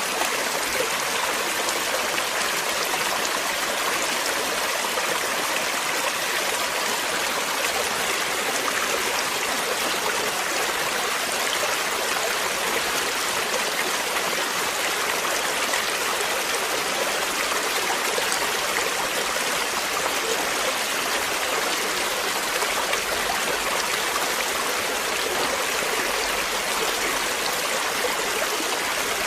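Flowing water in a stream, a steady rushing and trickling.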